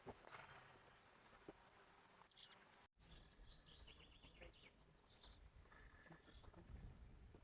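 Faint outdoor ambience with scattered short bird chirps, the loudest about five seconds in. The sound drops out for an instant just before three seconds in, and a low rumble follows.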